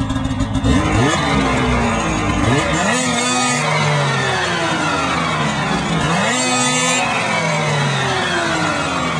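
Polaris RMK 600 snowmobile's two-stroke twin engine running at idle, then revved twice, its pitch climbing sharply and sliding back down each time.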